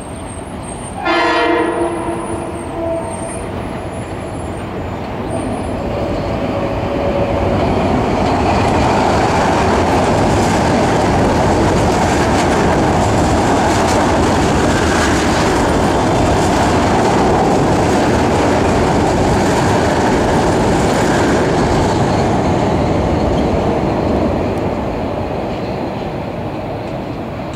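Metro-North commuter train sounding its horn about a second in, a chord of several steady tones lasting about two seconds. It then runs past at speed on the elevated tracks, the rumble of wheels building, holding loud for over a dozen seconds and fading near the end.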